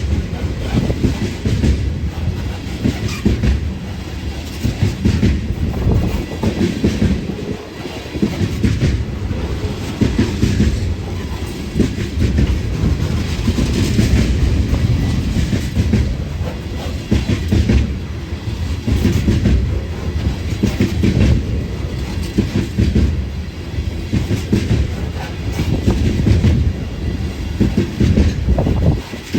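A train's cars rolling past close by: a steady, loud rumble with the wheels clacking over rail joints again and again.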